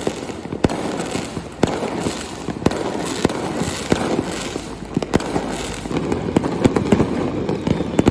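Fireworks display: aerial shells going off in a run of sharp bangs at uneven intervals, about one or two a second, over a continuous crackle.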